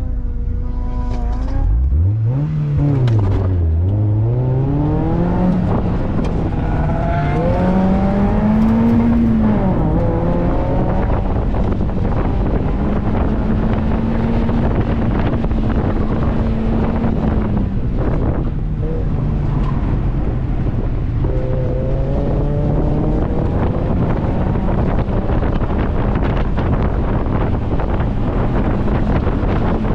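2002 Mazda Miata's 1.8-litre four-cylinder engine on an autocross run. It is held at steady revs on the line, then launches with revs climbing, shifts about three seconds in, and pulls up and down through the cones, easing off around eighteen seconds in before climbing again. Wind and road noise rush through the open cockpit.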